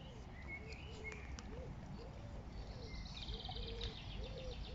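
Faint birdsong: a steady run of low, repeated cooing notes, with higher chirps and a short fast trill from small birds.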